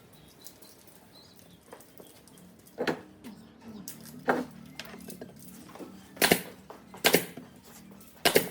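Five sharp knocks or strikes at uneven intervals, about a second apart, starting about three seconds in after a near-quiet stretch, with a faint low hum beneath the later ones.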